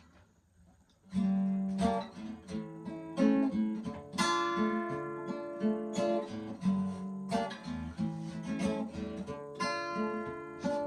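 Acoustic guitar playing an introduction of strummed chords, starting about a second in.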